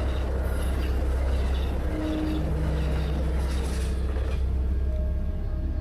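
A moving train's steady low rumble with rail noise.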